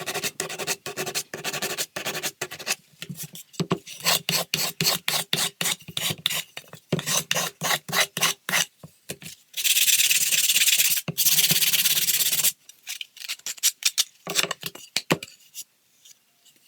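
Wood being filed by hand with quick back-and-forth scraping strokes. In the middle, a steady hiss lasts about three seconds and cuts off suddenly; after it the strokes come more sparsely.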